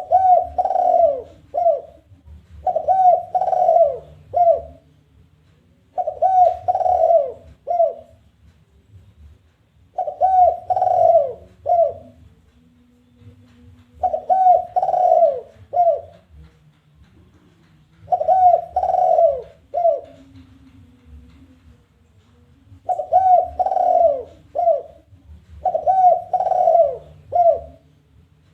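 Spotted dove (tekukur) giving its challenging call: about eight repeated cooing phrases, each of two longer falling notes and a short final note, spaced a few seconds apart.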